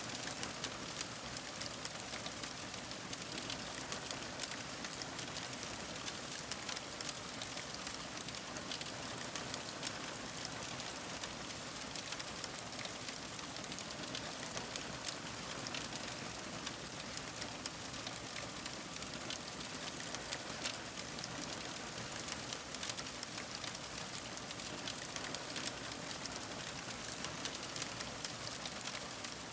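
Fire crackling: a steady hiss dotted with many small, quick pops.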